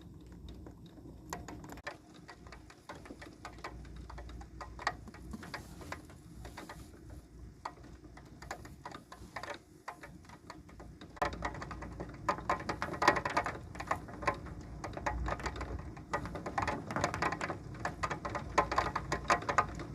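Rain pattering and dripping in irregular sharp taps, growing heavier and denser about halfway through.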